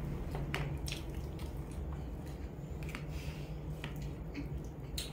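A person chewing noodles close to the microphone: scattered soft, wet mouth clicks and smacks over a low steady hum.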